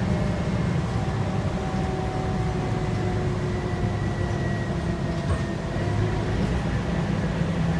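The Scania K230UB bus's 8.9-litre five-cylinder DC9 diesel engine running under way, heard from inside the cabin as a steady low drone. Faint whines ride above it and drift slowly lower in pitch.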